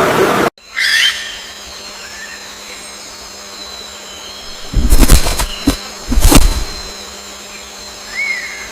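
Short bird chirps over a steady high-pitched whine, with two loud rough bursts about five and six seconds in.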